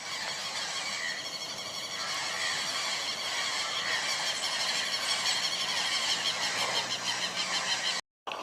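Steady, dense high-pitched outdoor sound with fine repeating texture, typical of a chorus of insects and birds; it drops out completely for a moment near the end.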